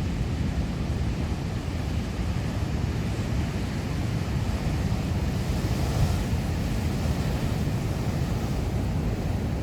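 Heavy ocean surf: large waves breaking and rushing, with wind buffeting the microphone as a steady low rumble. A wave's hiss swells briefly about six seconds in.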